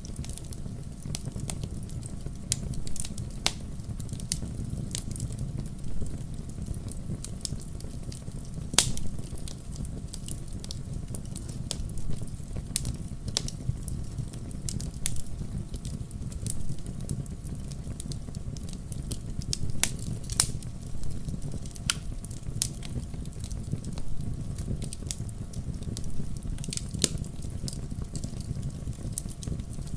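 Wood fire crackling in a fireplace: irregular sharp pops and snaps over a steady low rumble, with a few louder pops about 9 and 20 seconds in.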